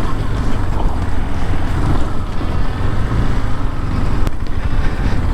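KTM 390 Adventure's single-cylinder engine running while riding, under heavy wind rumble on the microphone.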